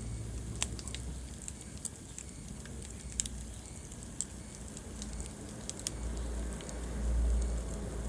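Wood fire crackling in a fireplace, with scattered sharp pops and snaps over a low rumble that swells near the end.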